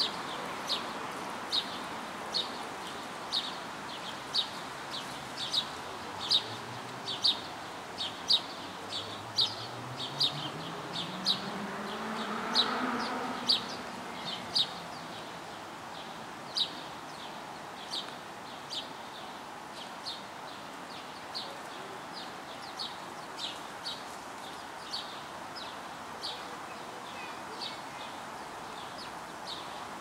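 A small bird chirping over and over, short sharp chirps at about one to two a second, louder in the first half and fainter after about fifteen seconds. Midway a passing vehicle's engine rises in pitch and swells briefly under the chirping.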